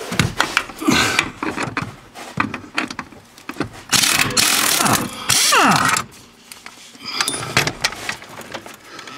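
Socket wrench on an extension working bolts out of a metal dash bracket: scattered clicks and knocks of the tool, with two longer, louder runs of ratcheting in the middle.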